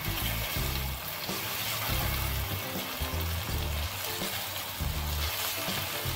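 Beef with whole spices and dry red chillies frying in a karahi, a steady sizzle as it is stirred, under background music with a low bass line.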